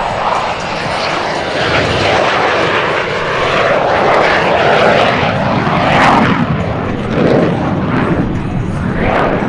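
Military jet aircraft passing low over the crowd. The engine noise sweeps in pitch as they go by and is loudest about six seconds in.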